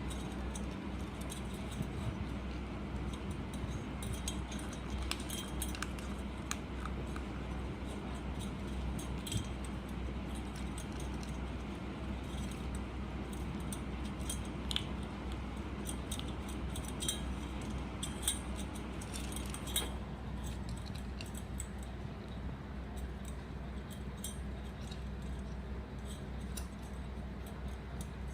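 Kitten crunching dry cat food: irregular sharp crunches and clicks, thinning out about twenty seconds in.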